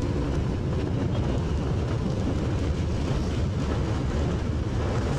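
Motorcycle on the move: a steady low rumble of wind and engine noise on the rider's microphone.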